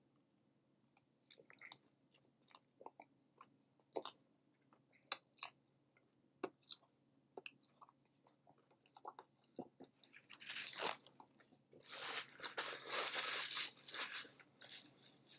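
A person chewing a mouthful of cheeseburger, quiet wet mouth clicks and smacks. The chewing gets denser and louder in the last few seconds.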